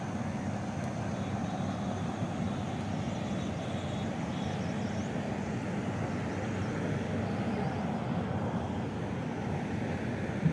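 Steady low rumbling background noise, even in level with no distinct events.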